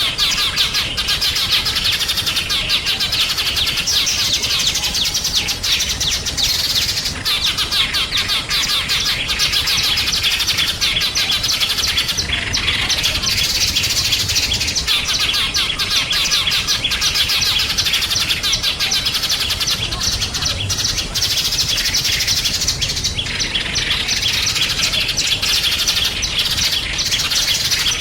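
Small songbirds chirping continuously, many quick high chirps overlapping in a dense, unbroken chorus.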